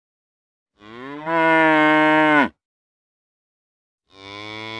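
A cow mooing: one long moo lasting under two seconds, then a second moo starting near the end.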